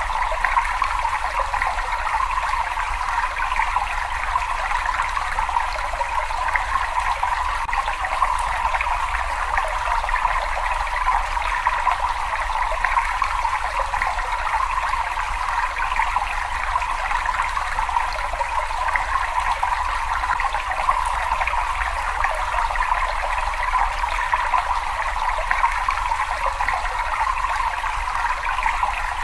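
Water running and trickling in a cave: a steady rushing with a low rumble beneath it.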